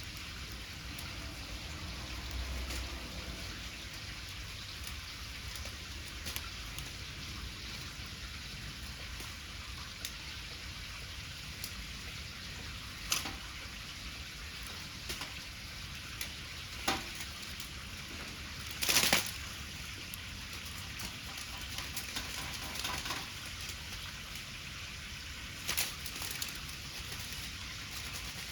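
Wood bonfire burning: a steady hiss with scattered sharp crackles and pops, the loudest about two-thirds of the way through.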